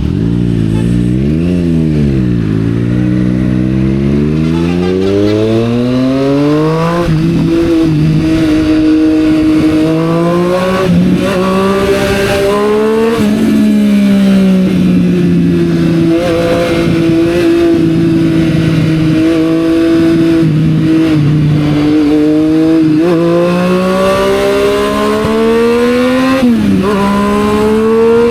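Triumph Street Triple 765 R's inline-three engine running through a Yoshimura exhaust. A quick blip of the throttle near the start, then it accelerates with the note rising and dropping sharply at each gear change, holds a steady note through the middle, and pulls up again before another drop near the end.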